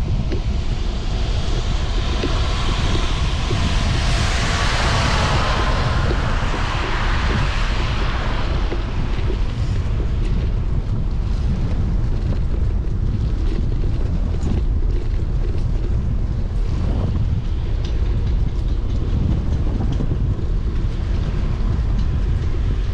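Wind rumbling on the microphone of a bicycle being ridden in the rain, over steady tyre and road noise. A louder rushing noise swells and fades about four to eight seconds in.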